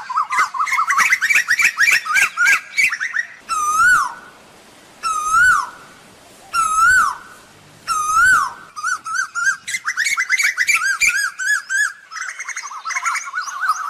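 Asian koel calling: rapid runs of short, quickly repeated notes, broken in the middle by four single rising-then-falling calls about a second and a half apart, then rapid runs again.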